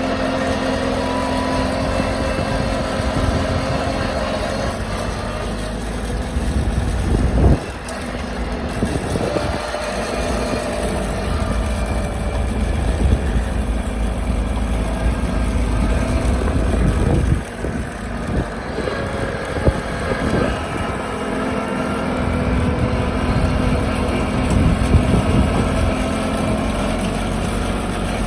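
Mahindra tractor's diesel engine running steadily under way, with the sound jumping abruptly a couple of times where the footage is cut.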